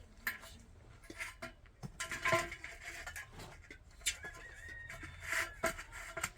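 Irregular clinks, taps and knocks of hard objects being handled, with short metallic rings a couple of times.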